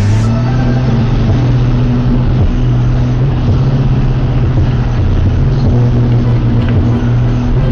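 Vehicle engine running with a loud, steady low drone that dips and rises slightly in pitch a few times as it drives along.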